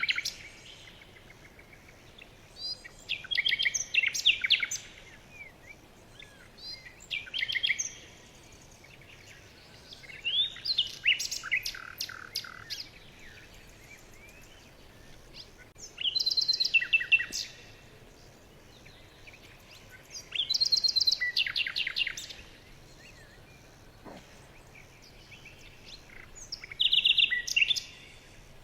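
Songbird singing in repeated phrases of rapid chirping trills. There are about six phrases, each a second or two long, separated by pauses of a few seconds.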